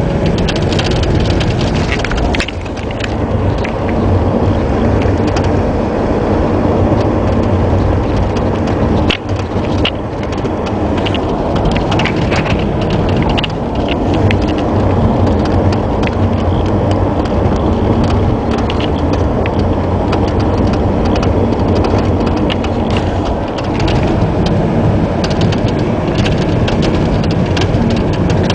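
2008 Toyota Corolla driving, with steady road and tyre noise and many short knocks, clicks and squeaks through it. These are the front struts knocking and the dashboard panel squeaking, faults that showed up at only about 10,000 km.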